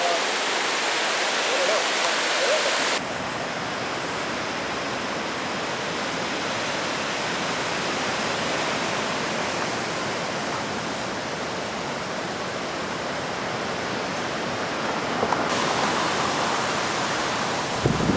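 Steady rushing of a river in flood, swollen by hurricane rain. The sound changes abruptly about three seconds in and again near the end, as the recording cuts between shots.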